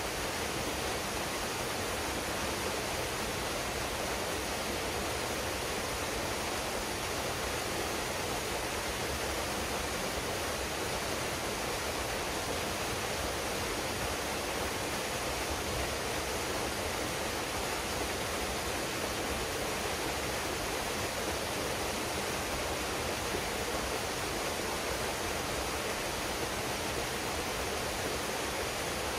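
Waterfall pouring steadily into a pool: an even, unbroken rush of falling water.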